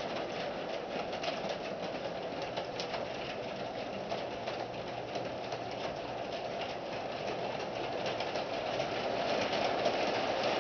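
Williams FP45 model locomotive running with a long train of 32 cars, its motor hum mixed with a fast patter of small clicks from wheels on the track, slowly getting louder toward the end.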